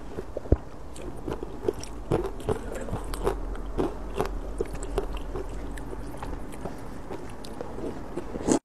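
Close-up chewing of a mouthful of soft rice noodles: many short, wet mouth clicks and smacks at an irregular pace.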